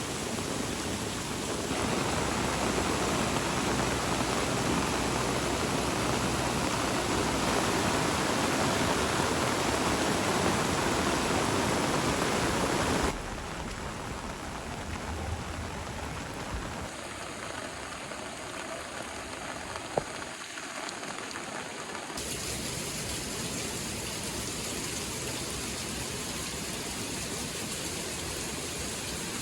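Steady rushing water noise of heavy rain and floodwater. It is louder for the first dozen or so seconds, then drops suddenly to a lower level, with a single sharp click about 20 seconds in.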